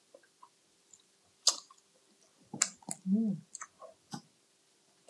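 Close-miked eating sounds of pork ribs being chewed: scattered wet mouth clicks and lip smacks, with a short hummed "mm" about three seconds in.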